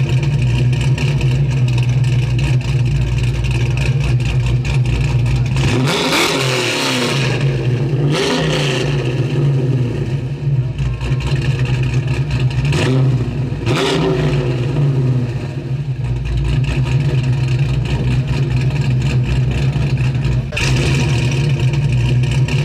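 Camaro's 355 small-block V8 crate engine idling steadily and being revved four times, each rev rising and dropping back to idle: two about six and eight seconds in, two more about thirteen and fourteen seconds in.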